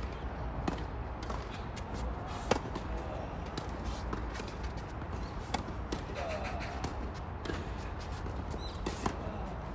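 Tennis ball struck by rackets and bouncing on a hard court: sharp pops every second or two in a rally rhythm, the loudest about two and a half seconds in.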